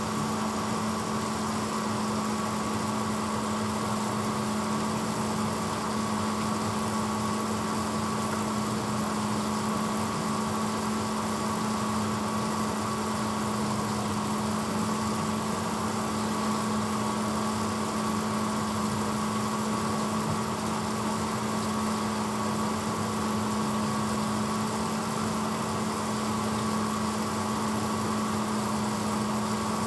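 1986 Hotpoint Potwasher dishwasher running steadily partway through its cycle: an unchanging hum with a strong low tone and a fainter higher whine over an even hiss.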